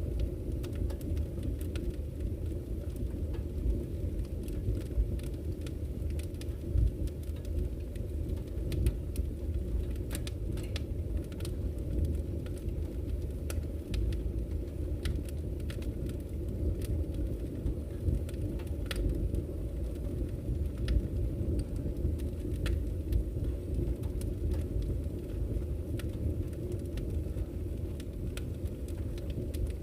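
Wood fire burning in a fireplace: a steady low rumble of flames with scattered crackles and pops from the burning logs.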